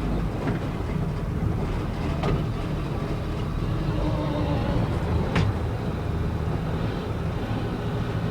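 Old grain truck's engine running at a steady low rumble as the truck drives, heard from inside the cab, with two sharp clicks or knocks about two and five seconds in.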